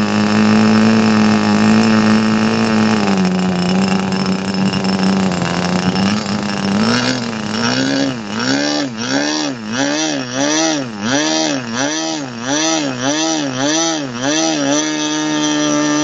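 ASP 25 two-stroke model glow engine running at high speed with a 10x6 propeller, a steady high-pitched buzz. About halfway through its speed starts surging up and down rhythmically, about one and a half times a second, then it settles into a steady, higher-pitched run near the end.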